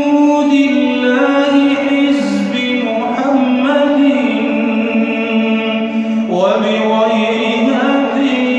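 Wordless male voices singing long, layered held notes as the vocal backing of an Arabic nasheed, the chord shifting every couple of seconds.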